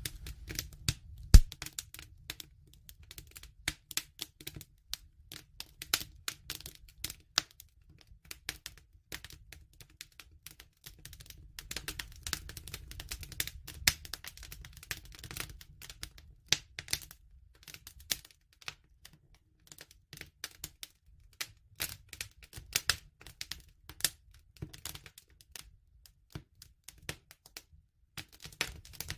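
Bonfire crackling: irregular sharp pops and snaps over a low steady rumble, with one louder pop about a second in.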